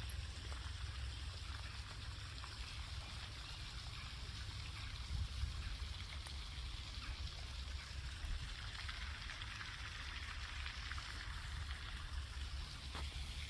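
Steady outdoor hiss with wind rumbling on the microphone and a few faint clicks.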